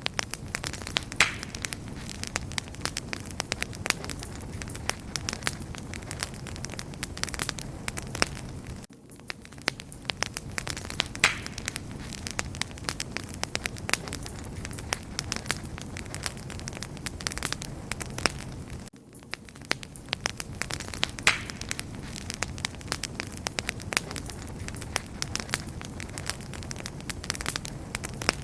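Wood fire crackling and popping steadily, with many small sharp pops over a soft low rumble of the flames. A short dip in the sound about every ten seconds marks the same stretch of recording repeating.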